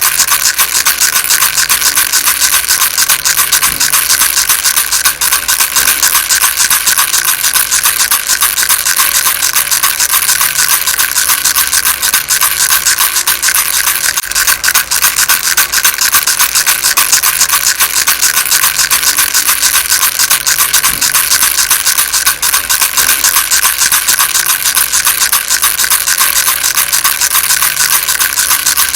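Baby rattle shaken quickly and without pause: a loud, dense stream of fine rattling clicks that stays even throughout.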